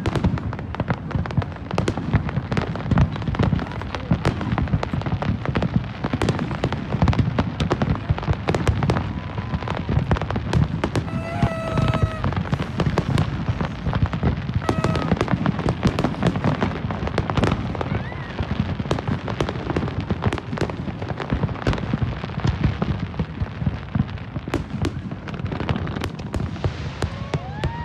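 Large aerial fireworks display: a dense, continuous barrage of bangs and crackles from many shells bursting at once, over a deep rumble.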